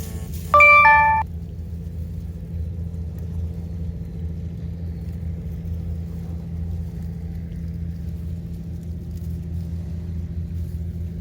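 A short two-note chime, a lower tone then a higher one, about half a second in and lasting under a second, over a steady low hum.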